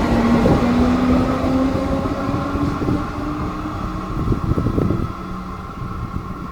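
Electric suburban train pulling away, its traction motors giving a whine that slowly rises in pitch as it accelerates and fades. A few louder knocks come about four seconds in.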